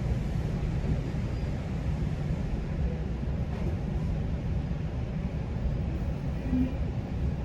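Steady low rumble of a GO Transit commuter train heard from inside the passenger coach, at a station stop.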